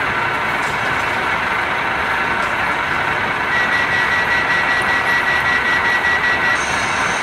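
Class 153 diesel railcar's engine running steadily at the platform, with a steady high tone sounding for about three seconds midway through.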